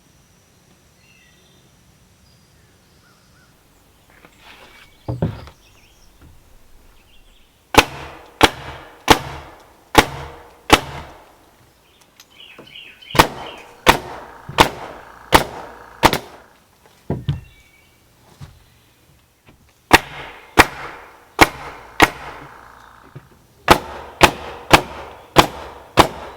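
A series of sharp knocks, each with a short ring, coming in runs of four to six blows about two-thirds of a second apart, with pauses of a second or two between the runs.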